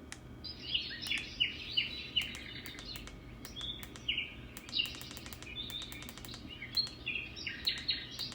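Small birds chirping in quick, repeated short calls, with sharp clicks scattered among them.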